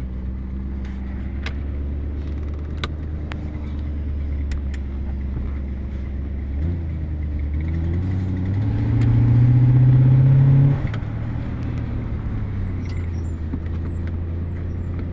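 Cadillac Seville's 368 (6.0 L) V8 heard from inside the cabin while driving: a steady low engine hum that grows louder and rises in pitch from about eight seconds in as the car accelerates, then drops back suddenly near eleven seconds.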